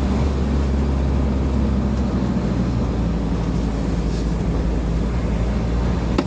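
Steady drone of a moving vehicle heard from inside, with engine hum and road noise, and a brief click near the end.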